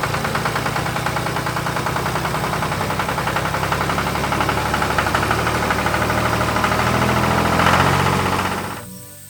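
Tractor engine sound effect running with a rapid, even pulsing, swelling a little about eight seconds in, then dying away just before the end.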